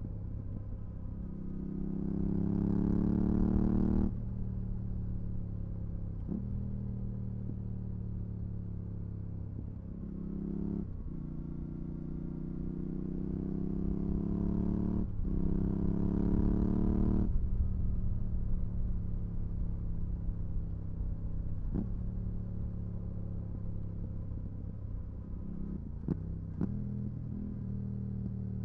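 Yamaha R7's 689 cc parallel-twin engine through a full Mivv GP Pro exhaust with the dB-killer fitted, pulling hard twice with the pitch climbing and then dropping suddenly as the throttle shuts or a gear goes in. Brief breaks between pulls mark gear changes, and in the last third the engine runs at a steadier, lower pitch.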